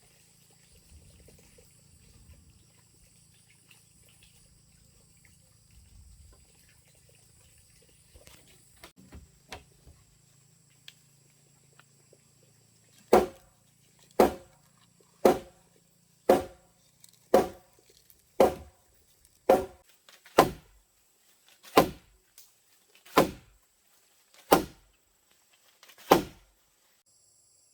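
A series of about thirteen heavy strikes on wood, evenly spaced at roughly one a second, starting about halfway through, as a tool works timber. Crickets chirp faintly behind.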